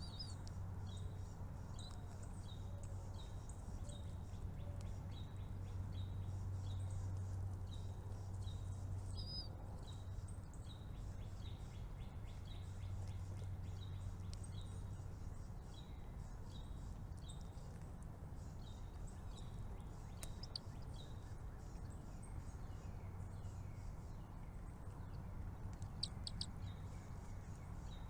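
Small bird chirping: short high chirps repeating about one and a half times a second, thinning out about halfway through, with a few louder chirps near the end, over a steady low hum.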